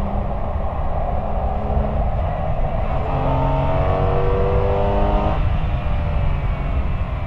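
Exhaust of a 1999 Porsche 911 Carrera 996's 3.4-litre flat-six, recorded close to the tailpipe with the car under way, over a heavy low rumble of wind and road on the microphone. The engine note climbs steadily in pitch for about two seconds, starting near the middle, then drops off suddenly.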